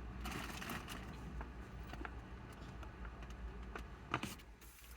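Soft rustling and rubbing of wipes and tissues being handled and wiped, with light ticks and one sharp click about four seconds in.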